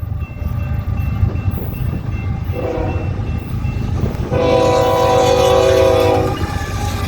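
Freight locomotive horn sounding a short blast and then a longer, louder one, over the low rumble of an intermodal train.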